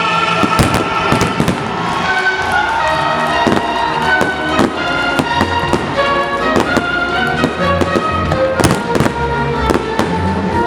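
Fireworks salute: firework shells bursting in rapid, irregular bangs, over music playing on loudspeakers.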